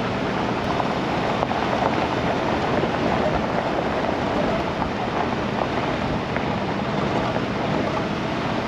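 Truck driving slowly on a rough forest road, heard from inside the cab: a steady engine hum under road and tyre noise, with small rattles and ticks scattered through it.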